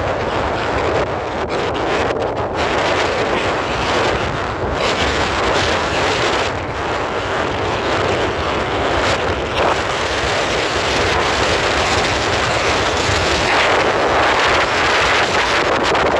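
Loud, steady wind noise buffeting the microphone, with a vehicle running underneath.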